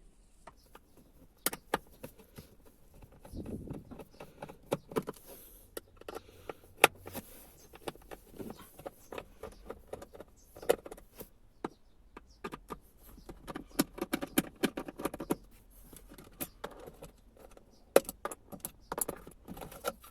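Hand tools unscrewing the three screws of the fuel pump access cover in a BMW E39's floor: a string of sharp metallic clicks and small rattles, with two longer runs of rapid clicking about a third of the way in and again near two thirds.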